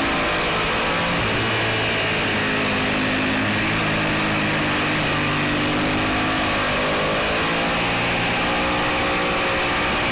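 Suzuki SV650's V-twin engine under way on a race track, its pitch dropping near the start and dipping then climbing again about two-thirds through as the rider works the throttle and gears. A steady rush of wind on the on-board microphone runs underneath.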